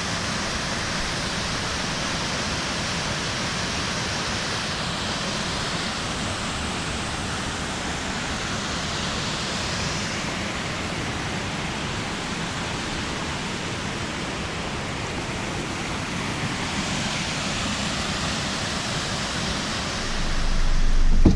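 Steady rushing of a waterfall, an even hiss of falling water. Near the end a loud low rumble comes up underneath it.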